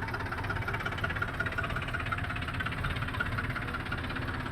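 Heavy-machinery diesel engine running steadily, with an even, rapid pulsing beat.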